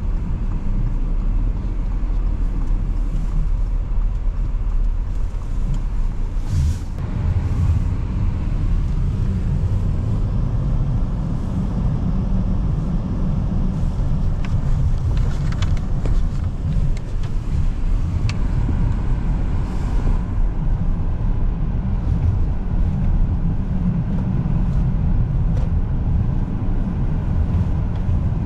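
A car driving along snowy city streets: a steady low rumble of engine and tyre noise, with a few faint brief higher sounds in the middle.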